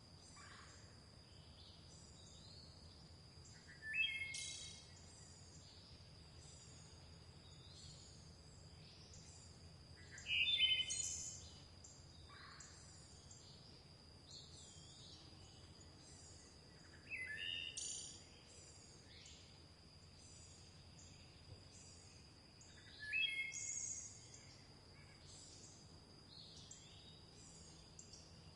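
Birdsong: one songbird sings a short phrase about every six seconds, four times in all, over faint continual twittering of other birds and a steady high-pitched tone.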